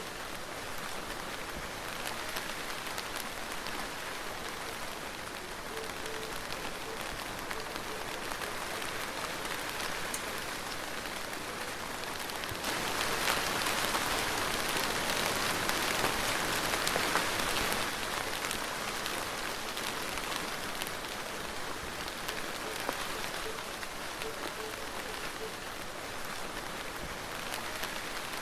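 Soft rain falling steadily: an even hiss with many small drop ticks. It grows louder for about five seconds around the middle, then eases back.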